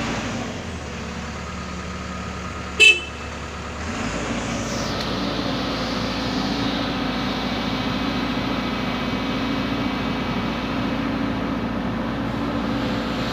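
Backhoe's diesel engine running steadily, getting a little louder about four seconds in. A short horn toot sounds about three seconds in.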